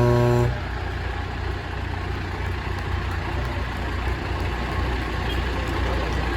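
A semi truck's horn blast cuts off about half a second in, then Kenworth semi trucks' heavy diesel engines rumble steadily as they roll past.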